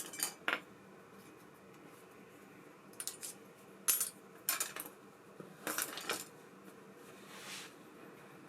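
Small metal parts and tools clinking and tapping against each other and a hard surface in a series of short, sharp clicks, with a soft swish near the end, as a baitcasting reel is worked on by hand.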